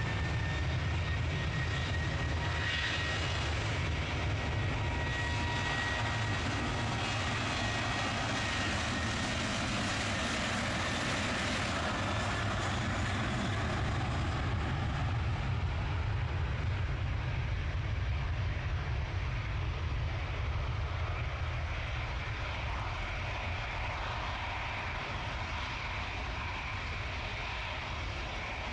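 Airliner's engines at takeoff power during its takeoff roll: a steady engine noise with a thin high whine that fades out about halfway through, then the whole sound slowly dies away as the aircraft leaves.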